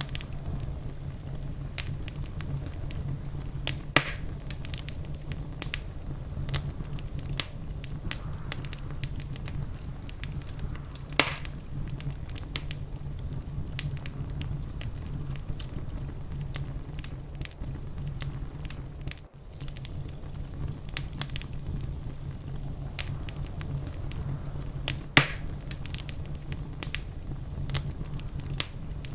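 Wood fire in a fireplace crackling, with constant small pops over a steady low rumble. Three louder pops stand out, about 4, 11 and 25 seconds in.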